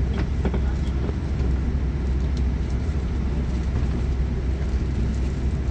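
Steady low rumble inside the passenger cabin of a Boeing 787 during pushback, even throughout with no distinct events.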